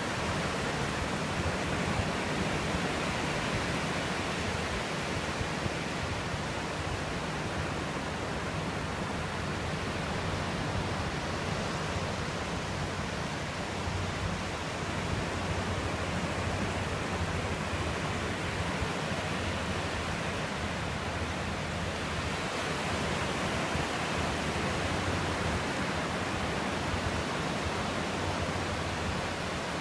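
Steady rushing of ocean surf on a beach, swelling and easing slowly over several seconds, with no gull calls standing out.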